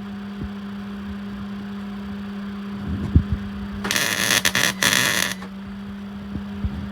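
Hobart 210 MIG welder arc crackling on an exhaust pipe in two short welds, about a second and a half in all, over a steady hum. A single knock comes just before the welding.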